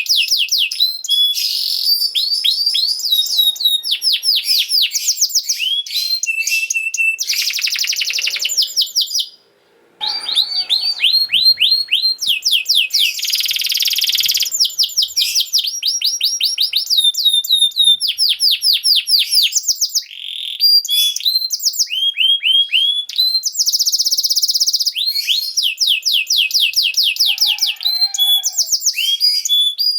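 Domestic canary singing a long song: fast runs of repeated falling whistled notes, alternating with buzzy rolls and trills, with a brief break about nine seconds in.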